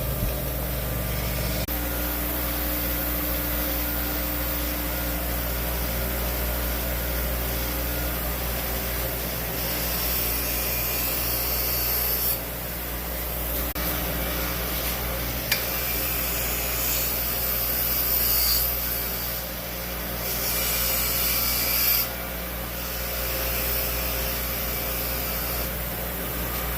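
Wire brush scrubbing grime and rust off steel lawnmower blades, a scraping hiss that swells and fades in stretches over a steady low hum.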